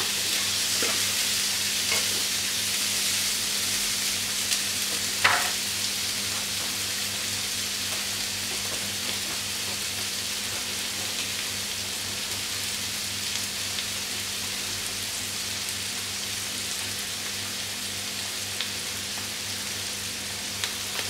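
Beef mince burger patties sizzling steadily in a hot frying pan with no oil, frying in the fat that renders out of the meat; the sizzle shows the pan is hot enough. A short knock about five seconds in as another patty is set down in the pan.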